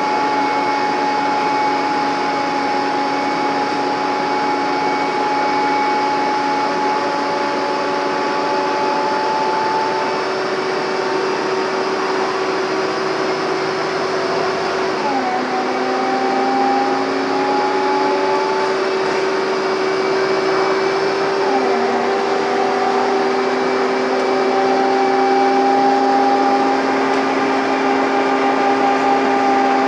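Scania N230UD double-decker bus's five-cylinder diesel engine heard on board, working hard uphill with a steady whining 'hoover thrash'. About halfway through and again about two-thirds of the way in, the whine drops in pitch and then climbs slowly back up, as the gearbox changes gear.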